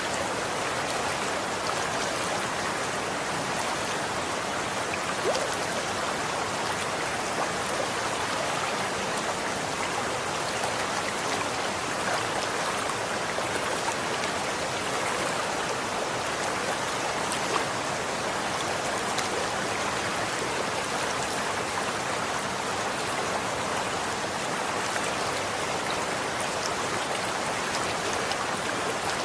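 Running water flowing steadily, an even rushing noise with small splashes and drips scattered through it.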